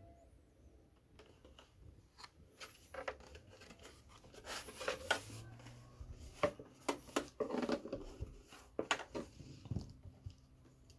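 Handling noise: a string of irregular clicks, light knocks and rustles of things being handled, busiest in the middle.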